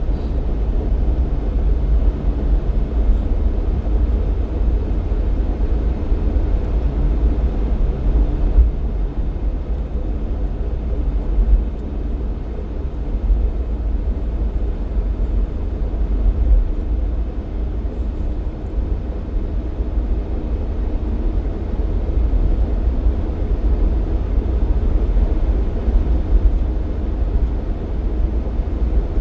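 Jeep Cherokee XJ driving at a steady pace: an even low rumble of engine and road noise.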